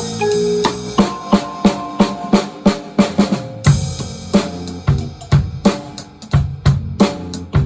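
Drum kit played in a steady beat along with a recorded band accompaniment: crisp bass drum and snare strokes over the ensemble's sustained melody notes.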